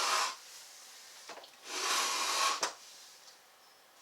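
Rustling and rubbing from handling a new sewing machine and its plastic wrapping: a short burst at the start and a longer one about two seconds in, ending in a sharp click.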